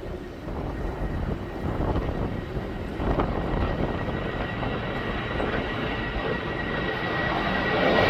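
Boeing jetliner's engines, a low rumble with a steady high whine, growing louder as the aircraft approaches.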